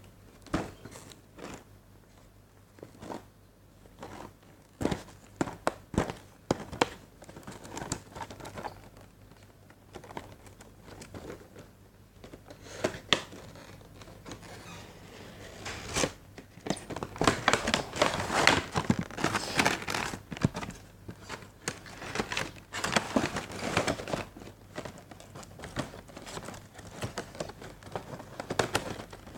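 Plastic packaging crinkling and rustling as it is handled and pulled apart: scattered clicks and rustles at first, then a denser run of crinkling after about half the time.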